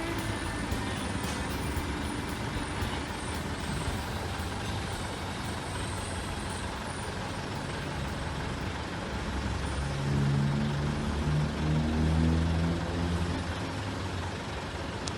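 Truck engine running steadily, growing louder with a low drone for a few seconds past the middle.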